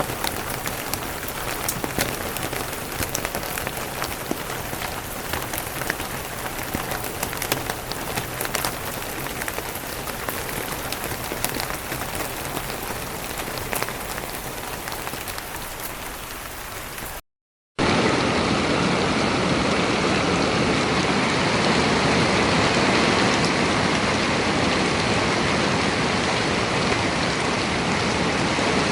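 Rain falling, with many separate drop hits audible through the steady patter. About two-thirds through it breaks off in a brief silence, and a louder, denser, even downpour takes over.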